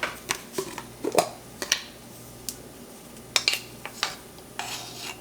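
Measuring spoon and ingredient containers clicking and tapping as baking powder is spooned into a bowl of dry ingredients: about ten separate light taps, with a short scrape near the end.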